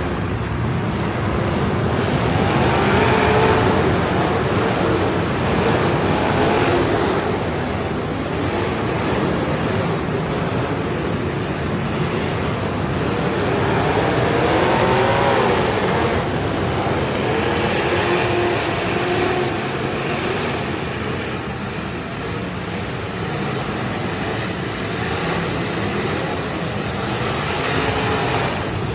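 Demolition derby cars' engines running together in a loud, continuous din, with engines revving up and down several times.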